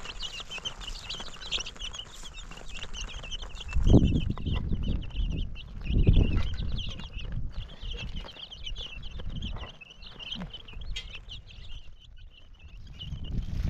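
Many small high chirps and peeps overlapping continuously, as from a group of chicks or small birds, with two loud low thuds about four and six seconds in.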